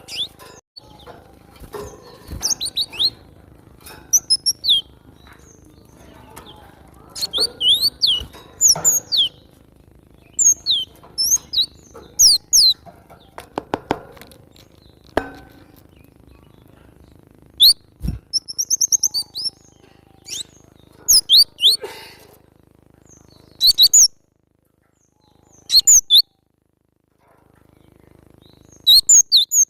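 Cinereous tit (glatik batu) calling in groups of short, sharp, high chirps that sweep downward, with a fast trill of repeated notes about two-thirds of the way through and pauses between phrases.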